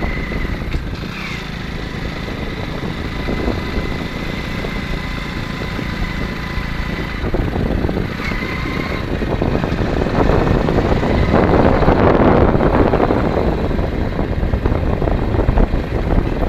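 A motor vehicle running on the road with wind noise on the microphone, growing louder a little past the middle.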